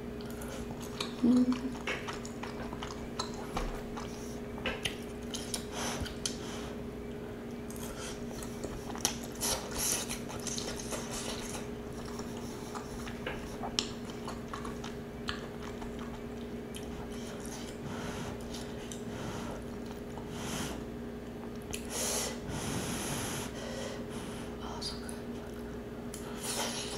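Close-miked chewing and mouth sounds of a person eating Cajun penne pasta, with occasional light clicks of a metal fork, over a faint steady hum.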